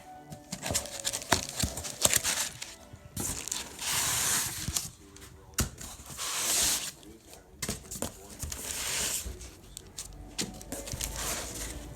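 Styrofoam packing material and the generator's box being pulled apart and handled: repeated rustling and scraping passes with a few sharp knocks.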